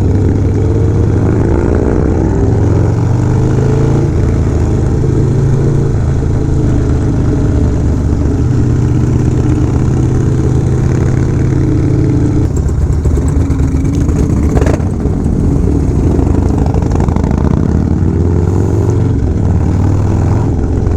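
Motorcycle V-twin engine running while riding, its pitch rising and falling several times as the rider rolls on and off the throttle and shifts gears.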